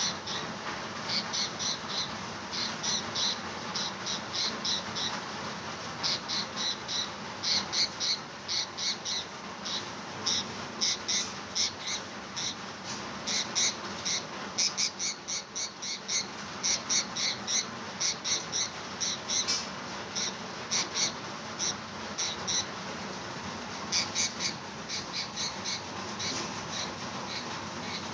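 Pet parrot squawking in rapid runs of short, high-pitched calls, several a second, in bursts with brief pauses, over a steady background hiss. The owner calls the bird very angry.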